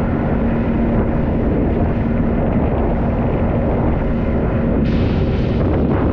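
Motorboat engine running steadily under loud wind rush on the microphone, with a couple of brief hissing bursts near the end.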